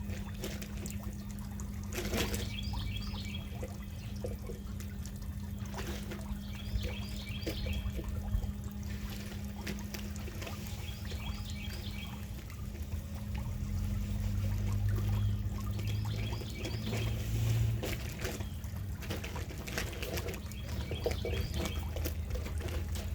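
A songbird repeating a short song phrase every few seconds, over a constant trickling outdoor background and a steady low hum.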